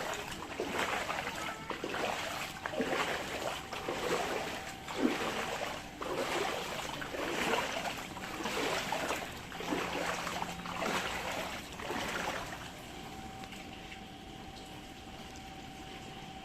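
Floodwater sloshing and splashing in repeated surges about once a second, easing to a quieter, steady wash about three-quarters of the way in.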